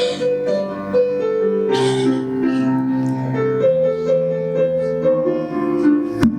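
Piano music, sustained chords and melody notes, with a sharp click near the end.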